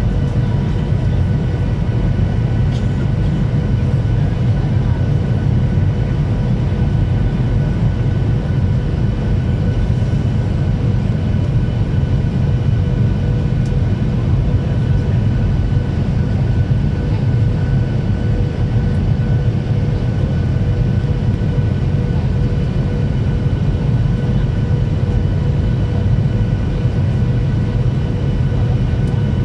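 Cabin noise of a Ryanair Boeing 737 in flight: a steady, loud rumble of engines and airflow with several faint steady whining tones above it, unchanging throughout.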